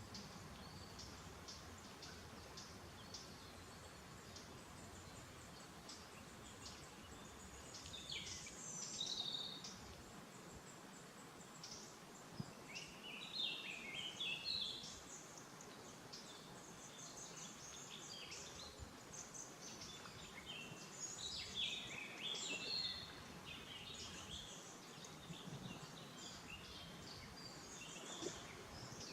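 Several small birds chirping and singing in short phrases over a faint steady outdoor background hiss, with busier bursts of song now and then.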